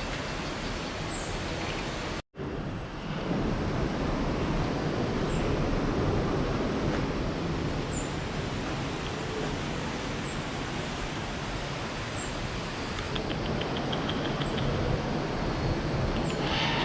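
Steady rushing ambient noise of an indoor rainforest exhibit, with a small bird giving short, high, falling chirps about every two seconds.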